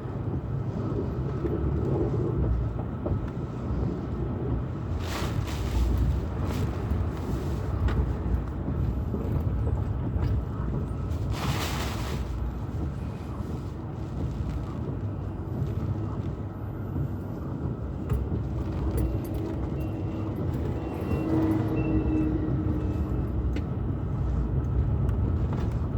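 A car driving, heard from inside: a steady low road rumble, with two brief hissing rushes about five and eleven seconds in.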